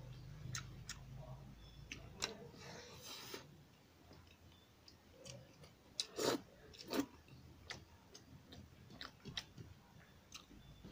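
Faint sounds of a man eating rice and chicken curry with his fingers: chewing, with scattered short clicks and two louder ones about six and seven seconds in.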